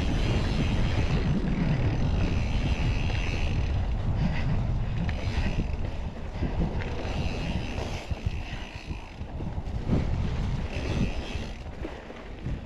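Wind buffeting the microphone while a mountain bike rolls along a dirt trail: a steady, loud, low rumble that eases a little in the second half.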